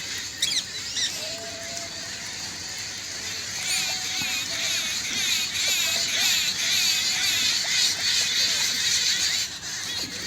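Parrots chattering in rapid, high-pitched chirps that grow denser about four seconds in and ease off near the end.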